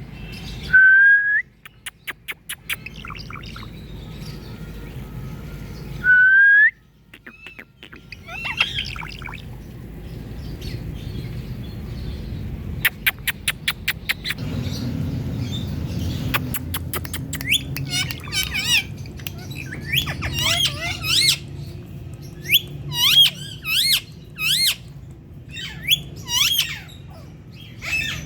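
Pet parrot whistling, clicking and chirping: two loud rising whistles early on, then runs of sharp clicks and quick chirps and squawks that come thicker toward the end.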